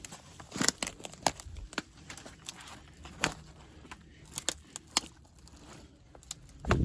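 Footsteps through dry leaves and twigs on a forest floor: irregular crunches and sharp cracks, with a heavier thump near the end.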